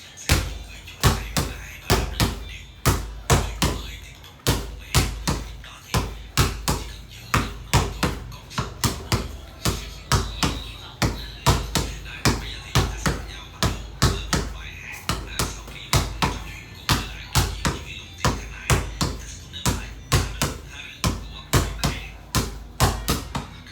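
Basketball dribbled repeatedly on a hard floor in a ball-handling drill, about two bounces a second with some quick double bounces.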